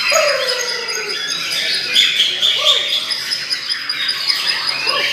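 Many white-rumped shamas singing at once, a dense overlapping mix of whistles, trills and chirps, with a lower falling whistle in the first second.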